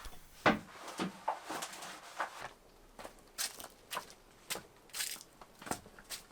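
Quiet, irregular crunches and scrapes, two or three a second, from manual work on a bathroom floor.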